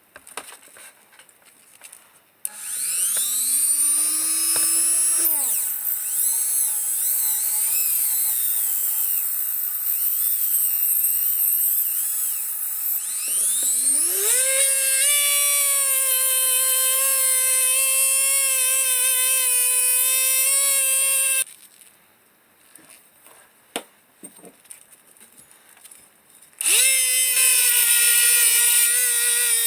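Small electric power tool spinning up a couple of seconds in, running with a whine and a strong high hiss that shifts as it works, then climbing to a steady higher pitch. It cuts off suddenly about two-thirds of the way through and starts again near the end.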